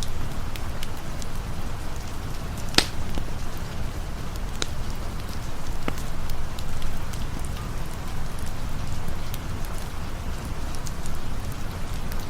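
Steady rain falling with a low rumble beneath it, and a few sharp campfire crackles, the loudest about three seconds in.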